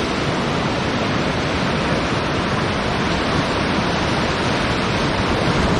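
Whitewater rapids rushing steadily around a river raft, a dense even roar of moving water.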